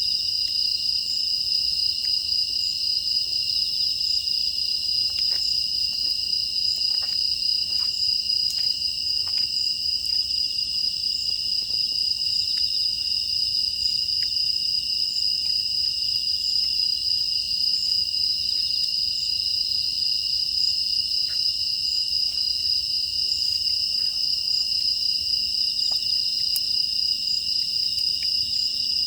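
A steady chorus of crickets and other grass insects, a continuous high trill at two pitches, with faint scattered crackles from a wood fire, mostly around a quarter of the way in.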